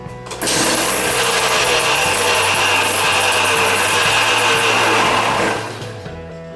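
KTM 200 EXC single-cylinder two-stroke engine revved hard and held high, its pitch sagging slowly, then falling back to a steady idle about five and a half seconds in. It is a freshly rebuilt engine on its first start-up.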